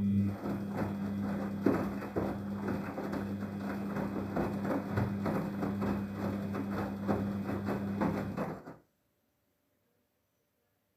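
Daewoo DWD-FT1013 washing machine turning its drum in a hand-wash cycle: a steady low motor hum under irregular knocking and clattering from the tumbling load. It stops abruptly about nine seconds in.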